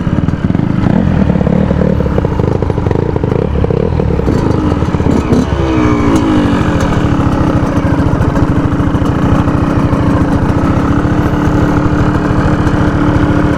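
Yamaha YZ125 two-stroke dirt bike engine running, its pitch falling about five seconds in as the bike slows for a stop, then settling into a steady idle.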